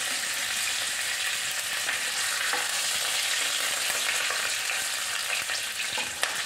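Cumin seeds, curry leaves and green chillies sizzling steadily in hot oil in a nonstick kadai: the tempering stage of the dish. A plastic slotted spatula stirs them, with a few light scrapes against the pan near the end.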